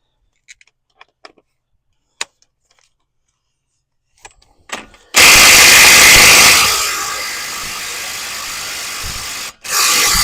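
A power tool runs on the freshly heated and loosened front axle nut. It starts abruptly and is loudest for about the first second and a half, then runs steadier and quieter for about three seconds and cuts off suddenly. A short second burst comes near the end, after a few faint clicks at the start.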